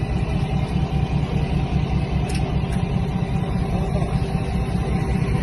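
A motor vehicle's engine running at a steady idle, a low rumble with no change in speed.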